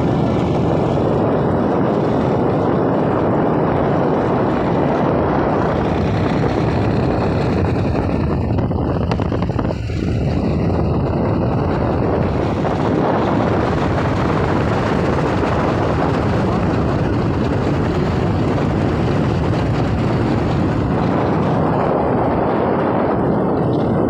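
Steady, loud running noise of a motor vehicle on the move through flood water, dipping briefly about ten seconds in.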